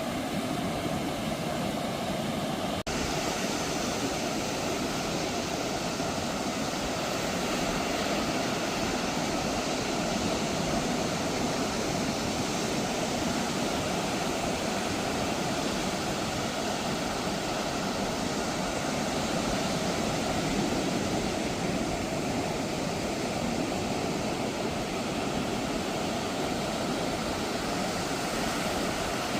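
Ocean surf washing steadily onto a beach. For the first three seconds a faint engine drone, like a passing light aircraft, runs under it and stops at a brief break.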